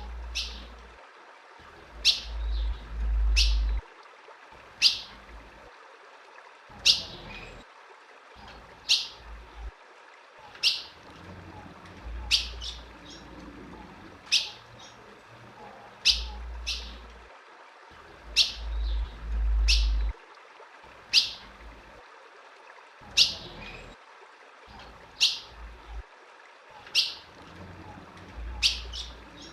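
Female ultramarine grosbeak (azulão) calling: short, sharp, downward chirps repeated about once a second at uneven spacing, with a low rumble coming and going underneath.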